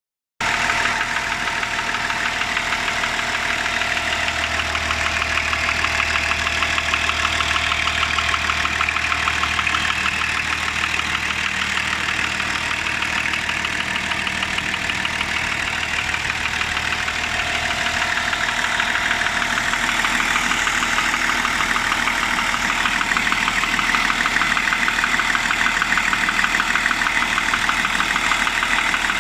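BMW M51D25 inline-six diesel idling warm, with a steady knock running through its rhythm. The knock is a developing engine fault that has grown more distinct over time and is louder when the engine is cold.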